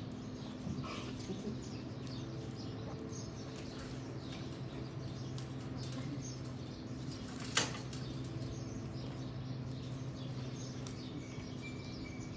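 Small birds chirping and twittering over a steady low hum, with one sharp click about seven and a half seconds in.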